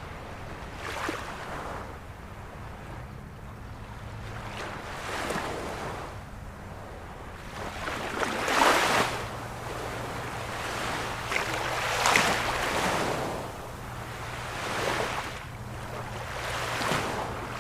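Ocean waves breaking in repeated swells of surf, each one rising and falling away every three to four seconds, with the strongest about halfway through.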